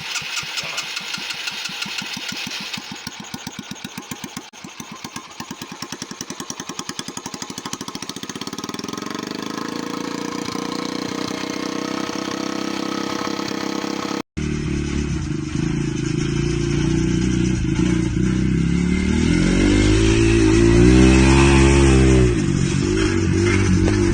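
Yamaha TT-R125 single-cylinder four-stroke engine in a lawn mower running at idle in even pulses that slowly spread out as it settles. After a sudden cut it runs louder and steadier, then revs up and back down near the end.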